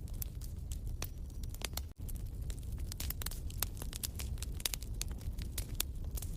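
Wood fire in a fireplace crackling and popping, with many quick irregular snaps over a low rumble of flame. The sound drops out for an instant about two seconds in.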